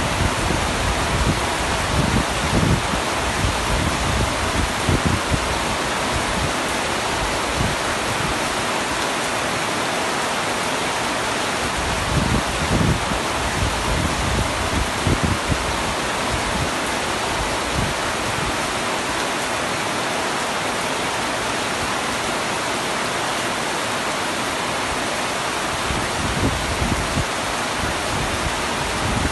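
Heavy rain falling on a tent roof: a steady hiss with irregular low thuds of drops hitting the fabric, fewer of them through the middle.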